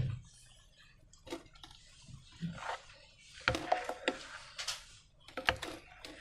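Sticky slime being handled, squelching and crackling in a series of short irregular bursts, busiest in the second half.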